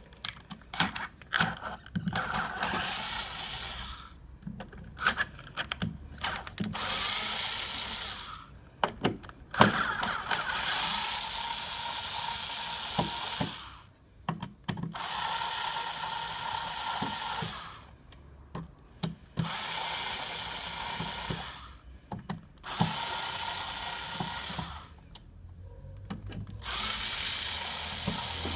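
Power drill running in about seven short bursts of one to three seconds each, with a steady whine, driving fasteners. Short clicks and handling noises fall between the bursts.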